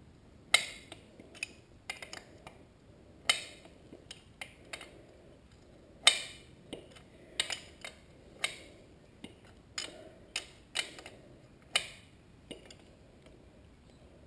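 A metal wrench clinking on the 10 mm chain adjuster bolt on a dirt bike's swingarm as the bolt is turned to tighten the chain. The sharp clicks and ticks come at irregular gaps of about half a second to a second.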